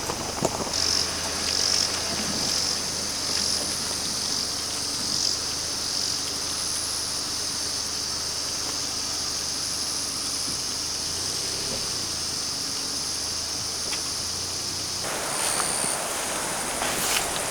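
Insects chirping steadily in a high pulsing band over the even rush of river water; the water noise drops away about fifteen seconds in, and a few sharp knocks come near the end.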